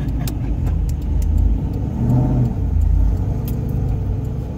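Car engine running with a heavy low rumble heard from inside a car's cabin, briefly rising and falling in pitch in a short rev about two seconds in.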